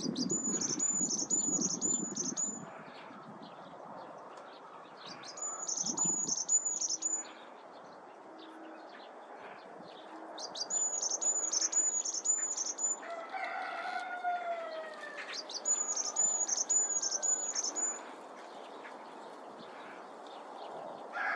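Varied tit singing: four phrases of rapid, very high-pitched repeated notes, each about two seconds long and a few seconds apart. A lower, falling call cuts in once between the third and fourth phrases.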